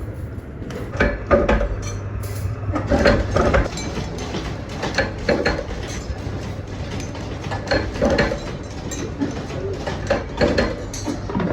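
Irregular clattering and knocking of hard parts being handled and struck, over a steady low hum.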